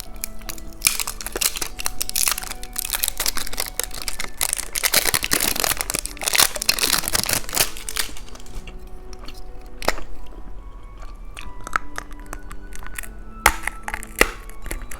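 Plastic candy wrappers crinkling and tearing as they are opened, densest for the first several seconds and then thinning to scattered clicks and taps, over light background music.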